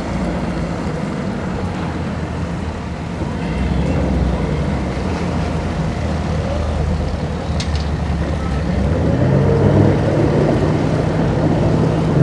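Boat engines running at low speed, a steady low drone that grows a little louder about nine seconds in, with one brief click partway through.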